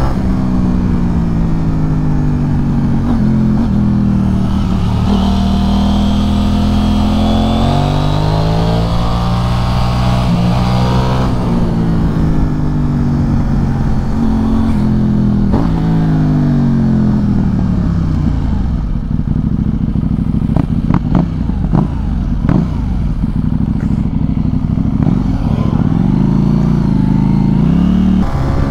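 KTM 790 Duke's parallel-twin engine through an Arrow Pro Race exhaust, revs rising and dropping back again and again while riding through the gears, with wind rushing over the helmet microphone. A cluster of sharp cracks comes a little past halfway.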